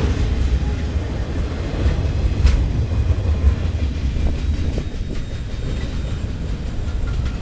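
Loaded flatcars of a freight train rolling past on the rails: a steady low rumble of steel wheels with occasional clicks and knocks as they cross rail joints.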